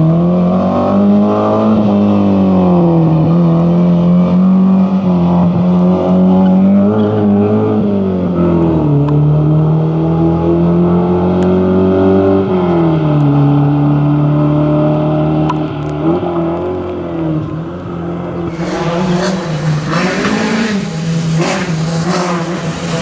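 Rally car engine working hard, its note climbing and dropping repeatedly as it accelerates and lifts or shifts. In the last few seconds a loud rushing hiss with crackles joins the engine.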